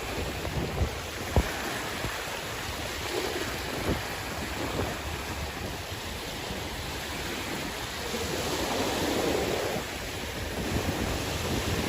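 Sea waves washing onto the shore, a steady rush that swells to a louder surge towards the end, with wind buffeting the microphone and a few brief thumps in the first seconds.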